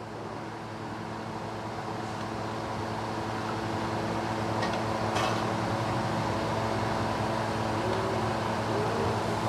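Car engine running steadily, growing gradually louder across the few seconds.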